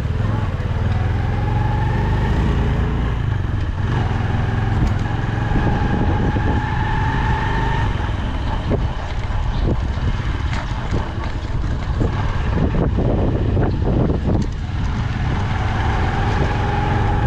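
Motorcycle engine running steadily while riding through city traffic, with road noise.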